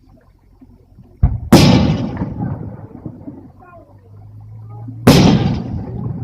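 Fireworks shells bursting: a low thump about a second in, then a loud bang with crackling that trails off. A second loud bang with a fading crackle comes near the end.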